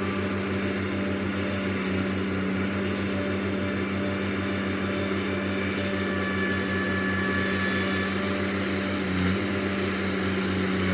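Diesel engine running at a steady speed, a constant low hum with no change in pitch.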